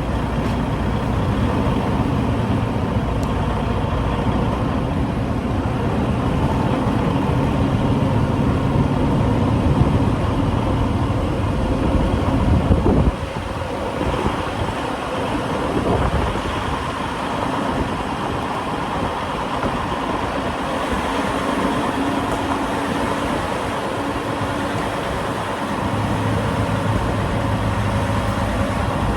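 Semi truck's diesel engine running with a steady low rumble; about halfway through, the rumble drops off suddenly and the engine runs quieter.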